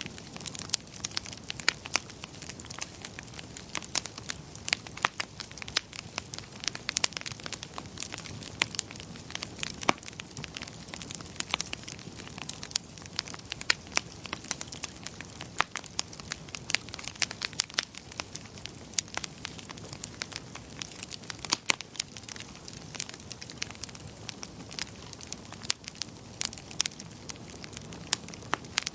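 Wood fire crackling, with many irregular sharp pops and snaps over a soft, steady low rush.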